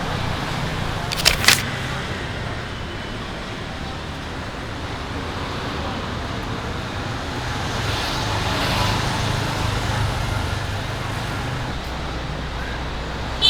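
Street traffic: a steady hum of vehicles running, swelling louder about eight seconds in as one passes. Two sharp clicks about a second in.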